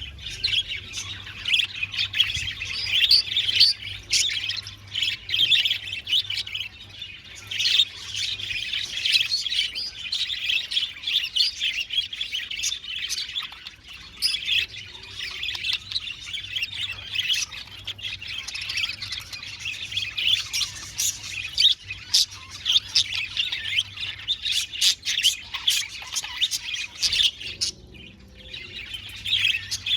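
A flock of budgerigars chirping and chattering without a break, many birds calling over one another, with occasional squawks.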